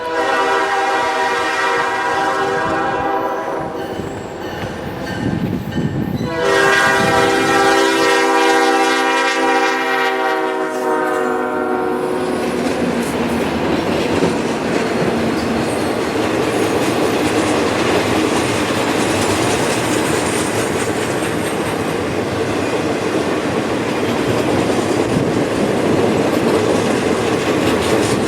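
A freight locomotive's air horn sounds two long blasts, then a heavy taconite ore train rolls past with a steady clatter of wheels on rail.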